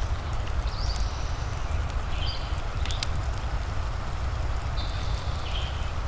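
Fireplace crackling with a steady low rumble and an even hiss of rain, scattered sharp pops throughout. A bird gives three short high chirps, the last a little longer and stepping down in pitch.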